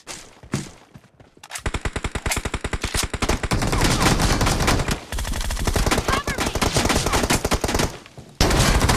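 Video-game automatic gunfire: a few single shots, then long rapid-fire bursts from about a second and a half in, breaking off briefly near the middle and again shortly before the end.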